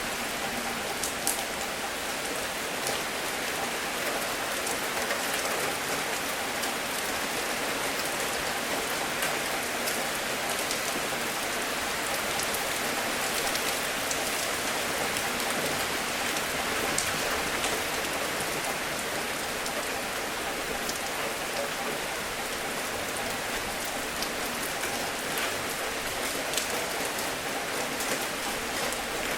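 Steady rain falling on a surface, a constant hiss of rainfall with scattered individual drop ticks.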